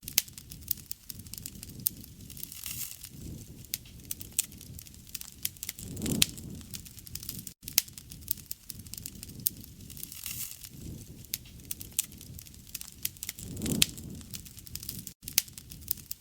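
Wood fire crackling and popping, with many sharp snaps over a low rushing sound that swells every few seconds.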